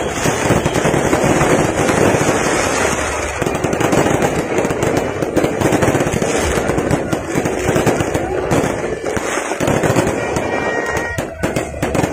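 New Year fireworks display: a dense, continuous barrage of bangs and crackles from aerial fireworks, with no pause.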